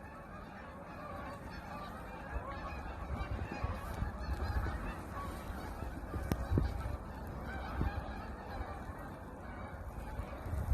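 A large flock of geese honking, many calls overlapping continuously, with a low rumble underneath.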